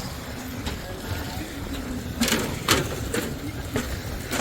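Steady low rumble of wind on the microphone, with a few sharp knocks a little past halfway and faint voices.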